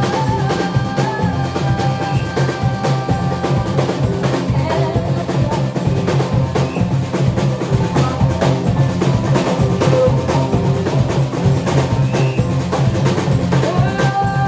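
Band playing an instrumental rock passage with a busy drum kit, with fills and rolls over a steady bass line; no singing. A held keyboard or guitar chord sounds at first, drops out a few seconds in, and comes back near the end.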